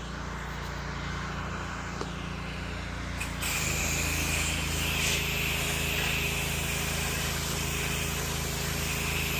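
Pressure washer running with a steady engine hum; about three seconds in, the spray starts and a loud, steady hiss of water joins it.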